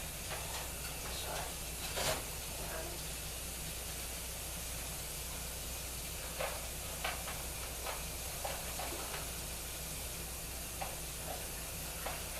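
Steady background hiss of a home recording, with a low hum and a scattering of faint short clicks and knocks.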